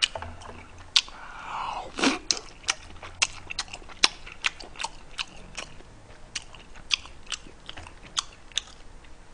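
A person chewing a mouthful of spicy stir-fried pork (jeyuk bokkeum) close to the microphone: wet mouth clicks and smacks, irregular, a couple each second.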